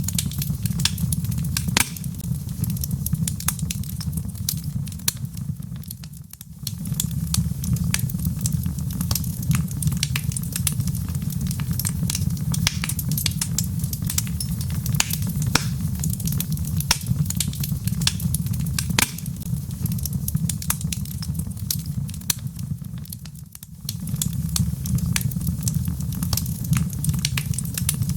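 Wood fire in a fireplace crackling and popping over a steady low rumble of the flames. The sound dips briefly twice, about six seconds in and again near the twenty-three-second mark.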